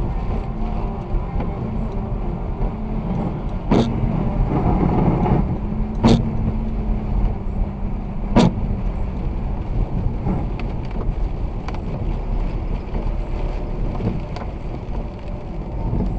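Car driving on a snowy road: steady low road and engine rumble with a faint hum. In the first half there are three sharp knocks, evenly spaced a little over two seconds apart.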